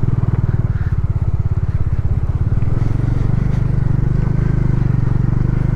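Motorcycle engine running at low revs under load while riding through a snowmelt water crossing, its separate firing pulses plainly heard; about two and a half seconds in the revs pick up to a steadier, smoother note.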